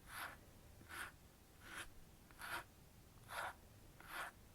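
Eyebrow comb brushing in short strokes, six in a row about one every 0.8 seconds.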